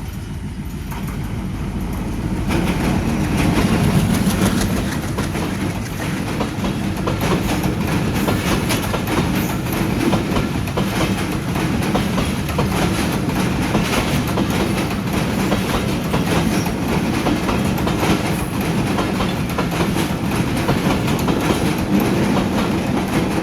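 A train passing close by, with the wheels clicking over the rails in a dense run. It builds up over the first few seconds, then runs on steadily.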